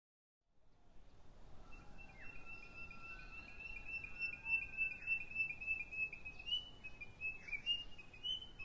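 Birds chirping: a long run of quick, high repeated notes with a few downward-sliding calls, over faint outdoor background noise. It starts after about half a second of silence.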